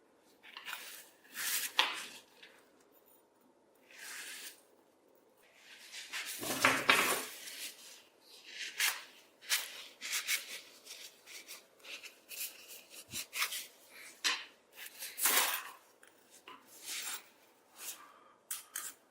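Hands working on heavily rusted old shears with rope-wrapped handles: a series of short, irregular scraping and rubbing sounds with quiet gaps, the longest and loudest about six to eight seconds in.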